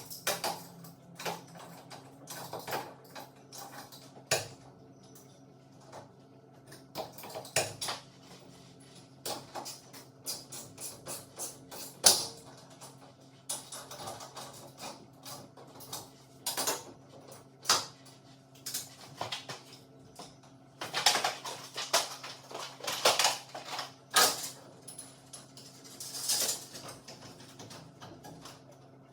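Tools and metal garage door hardware clinking and knocking irregularly during torsion spring replacement, over a steady low hum. The sharpest knock comes about twelve seconds in, and a busy run of clanks comes in the second half.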